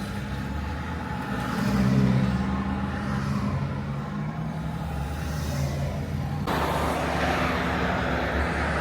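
Heavy trucks running on a road, with a deep steady engine drone. A louder rushing noise sets in suddenly about two-thirds of the way through.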